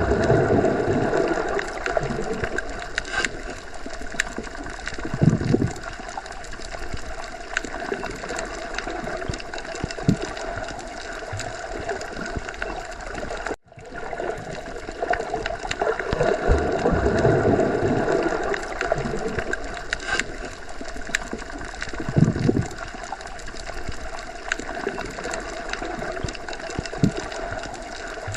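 Underwater sea ambience: a steady wash of water noise with scattered clicks, swelling in level now and then. It cuts out to silence for a moment about halfway through.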